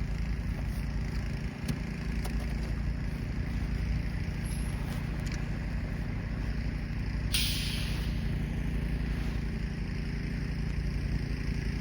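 An engine running steadily. About seven seconds in there is a brief hissing rush.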